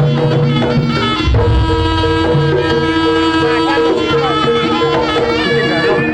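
Jaranan (East Javanese kuda lumping) music: hand drums keep a steady pattern under a melody of long held notes.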